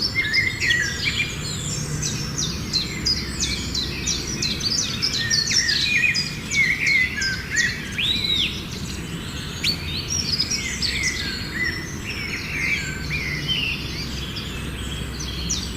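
Small caged birds chirping and chattering continuously, many quick overlapping calls and whistles, over a faint steady low hum.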